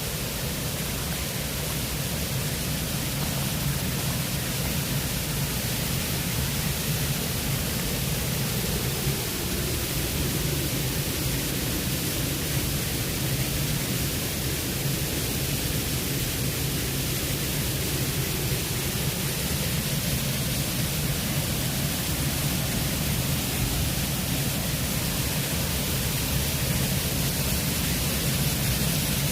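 Steady rushing noise with a strong low hum underneath, unchanging throughout.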